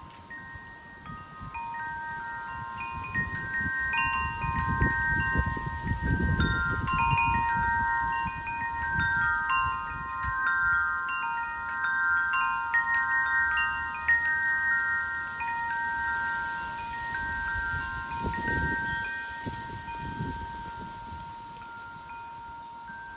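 Wind chimes ringing continuously as the wind knocks them, several long-ringing notes overlapping. Low gusts of wind rumble on the microphone a few seconds in and again near the end.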